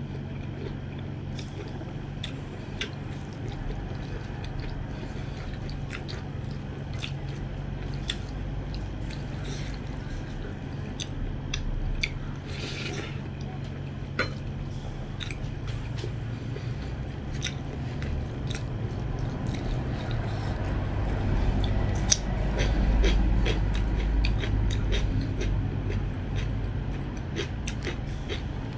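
Close-up mouth sounds of someone eating soybean curry and rice: wet chewing with frequent small smacks and clicks. Underneath is a steady low hum that grows louder about two-thirds of the way through.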